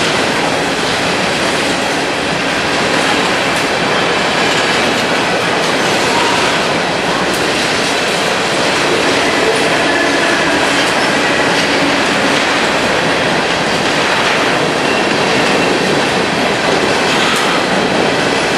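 Coal hopper cars of a freight train rolling past, a steady, loud rumble and rattle of steel wheels on the rails.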